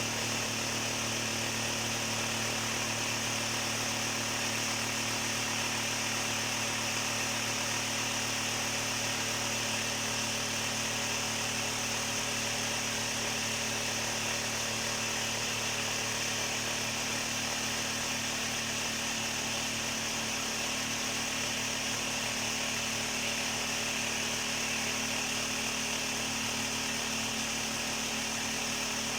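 An electric machine running steadily, with a constant hum and hiss that does not change.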